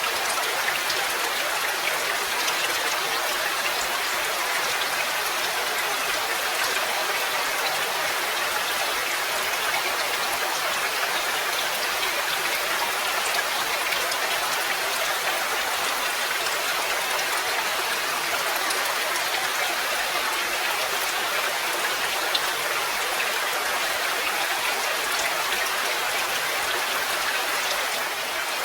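Steady rain: a dense, even hiss of many drops pattering without let-up.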